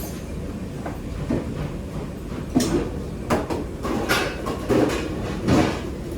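Commercial kitchen at work: a steady low rumble with repeated clatters and scrapes of utensils and cookware, about five sharp knocks in the second half.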